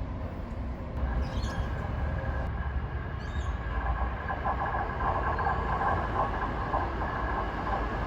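Passenger train at a station: a steady low rumble, with a high whine joining about a second in and a pulsing, louder tone from about halfway through.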